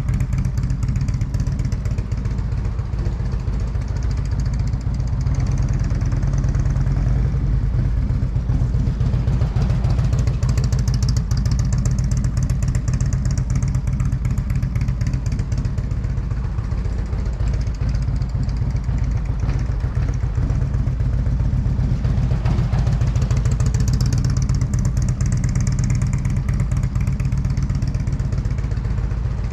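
Motorcycle engine running steadily at low speed with little change in pitch, as the bike is ridden through slow, tight u-turns.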